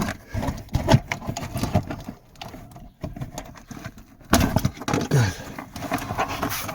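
Hands working at a car's loosened fabric headliner and the wiring behind it: irregular rustling and scraping with many small plastic clicks and knocks, louder for about a second near the middle.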